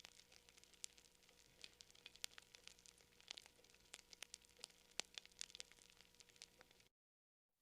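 Quiet campfire crackling: burning wood giving off irregular sharp pops and snaps, several a second, over a faint hiss. The sound cuts out completely for about half a second near the end.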